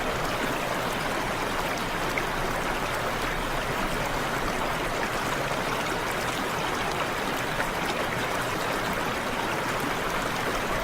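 Steady rush of flowing stream water, an even hiss with no change throughout.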